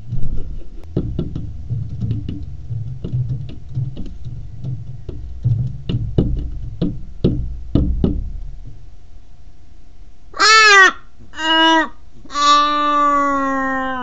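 Australian raven knocking at a glass door: a run of irregular sharp taps for about eight seconds. Then it calls three times, harsh and loud, the third call long and drawn out and falling away at the end.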